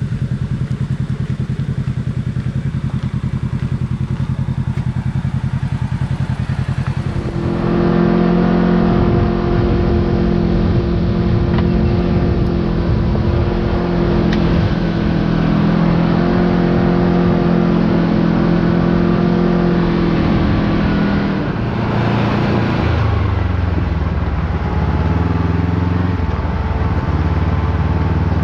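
Side-by-side UTV engine running while driving on a trail, holding a steady pitch. The sound changes abruptly and grows louder about seven seconds in, and the engine's pitch drops lower a few seconds before the end.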